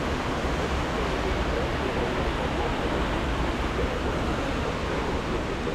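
Steady wind rush over the microphone of a motorcycle riding at road speed, with the low drone of the KTM 690 Enduro R's single-cylinder engine underneath.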